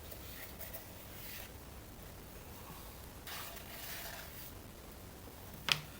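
Faint soft rustling and squishing of hands working a wet paste of baking soda and cold water, in two short spells, with one brief sharp click near the end.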